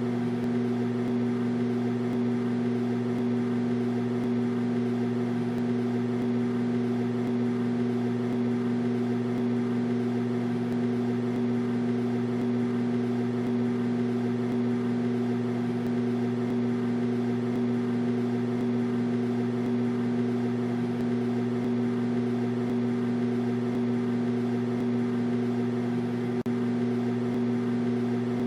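Microwave oven running: a steady, unchanging electrical hum.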